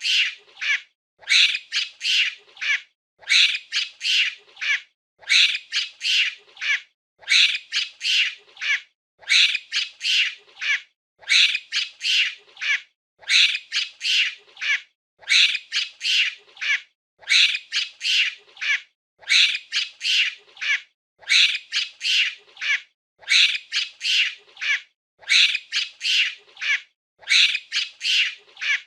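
Monkey calls: short, high-pitched screeching calls in quick groups of about four, the groups repeating evenly about every two seconds like a loop.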